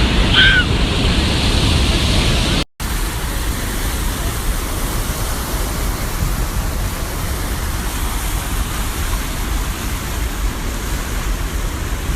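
Steady roar of Niagara Falls' falling water, a continuous even rush. It drops out for an instant about three seconds in, then carries on.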